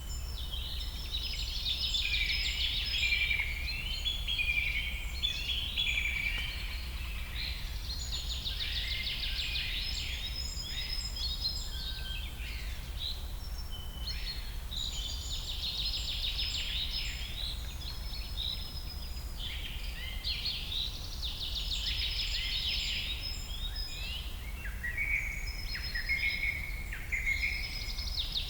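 Several birds singing and calling at once, with high chirps and fast trills overlapping and swelling in spells every few seconds, over a steady low rumble.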